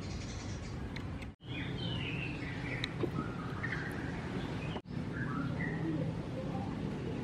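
Small birds chirping in short, scattered calls over a steady low background noise; the sound drops out briefly twice.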